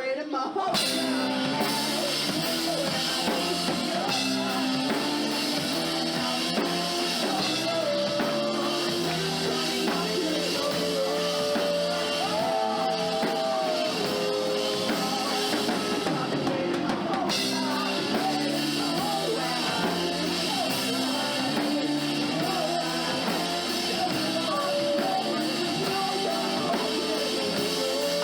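Rock band playing a song live, with a drum kit and a singer carrying the melody.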